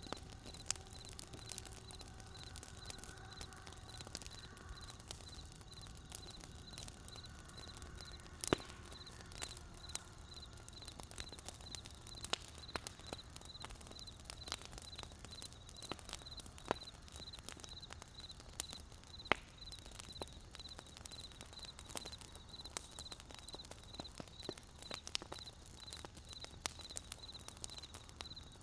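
Wood campfire crackling: irregular sharp pops and snaps from the burning wood over a low steady rumble, the loudest pops about 8 and 19 seconds in. A high, evenly pulsing chirp runs underneath.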